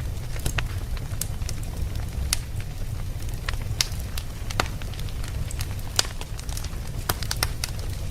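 Wood fire burning, with irregular sharp crackles and pops several times a second over a steady low rumble of the flames.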